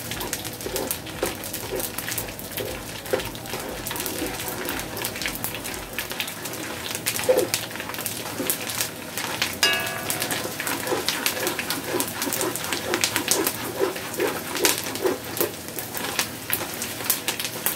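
Gond (edible gum) frying in hot desi ghee, crackling and popping steadily as it puffs up, while a spatula stirs and scrapes through it in a metal pot.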